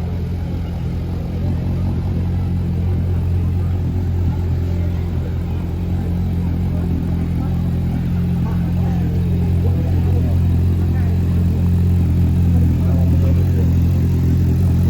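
A steady low mechanical hum with a fixed pitch, slowly growing louder, over faint distant voices.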